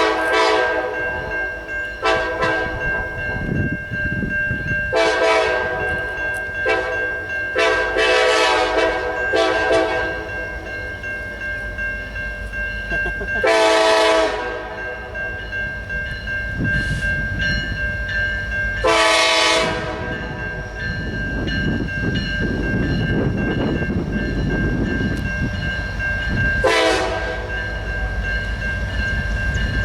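Diesel locomotive horn sounding a long series of blasts, some long and some short, over the steady low rumble of a moving train that grows heavier after the middle.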